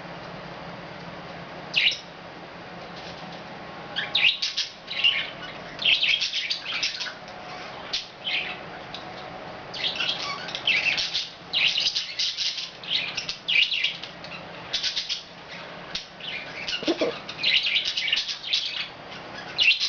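Budgies chirping and chattering, with a single call about 2 s in and then a busy, irregular run of high chirps from about 4 s on.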